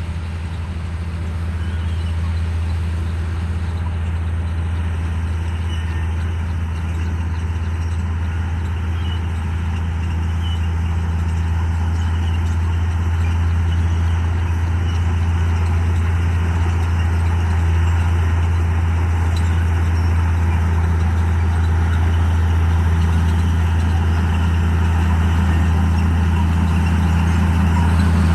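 Komatsu D58E bulldozer's diesel engine running steadily, a continuous low drone that grows slightly louder over the stretch.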